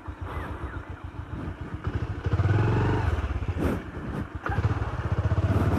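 Motorcycle engine running with a rapid low pulse, getting louder about two seconds in as it is given throttle.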